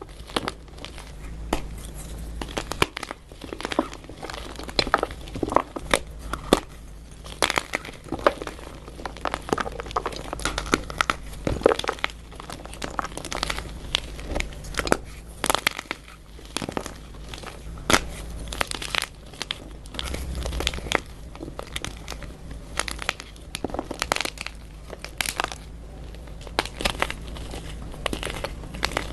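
Blocks of dyed gym chalk being crushed and crumbled, giving many irregular dry crunches and crackles.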